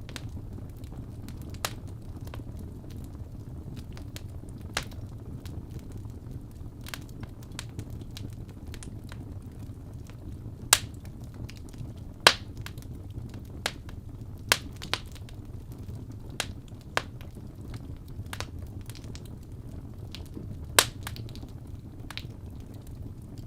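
Wood fire burning in a fireplace: a steady low rumble of flames with scattered sharp crackles and pops from the burning logs, the loudest pops about 11, 12 and 21 seconds in.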